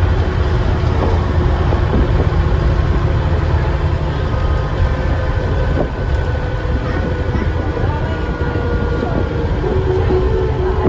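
Dennis Trident double-decker bus's diesel engine running under way, heard from inside the bus as a steady low rumble, with a faint high whistle from the turbocharger above it.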